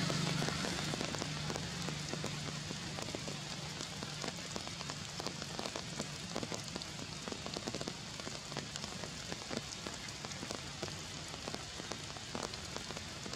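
Rain pattering steadily: a dense patter of many small drop ticks over a continuous hiss.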